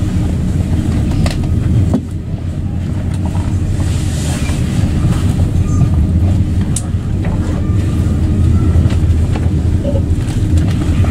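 Steady low rumble of an Italo high-speed train running at speed on the line, heard inside the passenger cabin, with a few light clicks.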